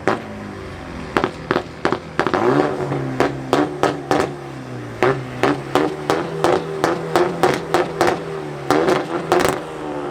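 Performance car engine revving through a loud exhaust. About two seconds in it settles into a steady note under a rapid string of sharp throttle blips with exhaust cracks, two or three a second.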